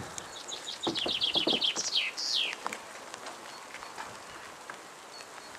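A songbird sings one phrase: a quick run of about a dozen short notes falling in pitch, ending in two downward-sliding notes. A few soft knocks sound under it.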